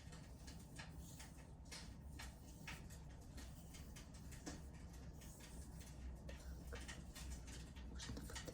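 Wood fire crackling in a fireplace: faint, irregular sharp pops and clicks of burning logs over a low steady hum.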